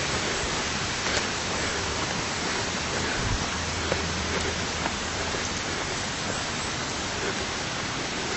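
Steady rush of running water, with a few faint knocks over it.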